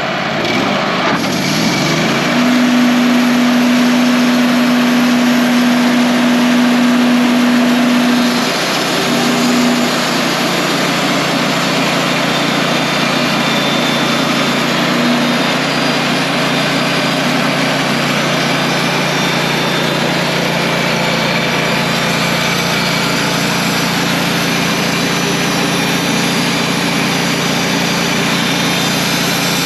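Wood-Mizer portable band sawmill running steadily, its engine driving the band blade through a log. A steady hum comes in about two seconds in and drops out around eight seconds.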